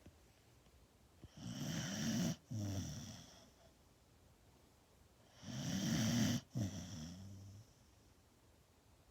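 A dog snoring: two long snores about four seconds apart, each a rattling breath that breaks briefly into a weaker tail, with quiet in between.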